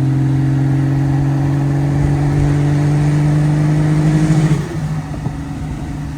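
Car engine running at a steady cruise, heard from inside the car, its note creeping slightly higher and then dropping suddenly and getting quieter about four and a half seconds in. A hiss swells over it in the middle.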